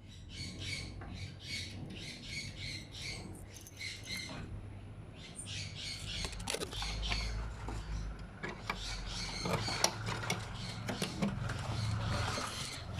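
Sun conures in a nest box giving a run of soft, evenly repeated chirps, about three a second, which pause and resume. Scattered clicks and scratching follow in the second half.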